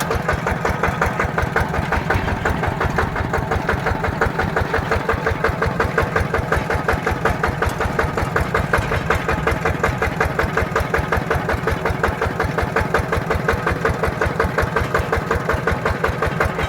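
Mini tractor's single-cylinder diesel engine running with a steady, rapid beat while the tractor is driven.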